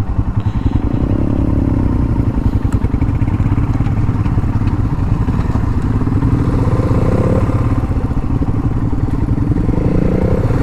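Royal Enfield Himalayan's single-cylinder engine running steadily while riding, a fast even exhaust beat with the engine note shifting slightly up and down.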